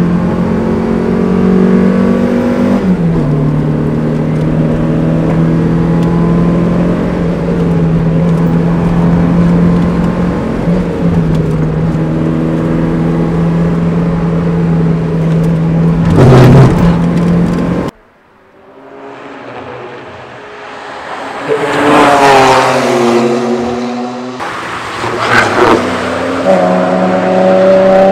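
Mazda MX-5's four-cylinder engine heard from inside the cabin at a steady pitch, dropping once in pitch near the start, with a brief loud rush of noise shortly before an abrupt cut. Then cars passing by on the circuit, two sweeping past with falling pitch and another approaching near the end.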